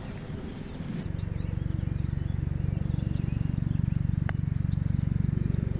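A low motor drone with a fast, even pulse starts about a second in and grows louder, with faint bird chirps above it.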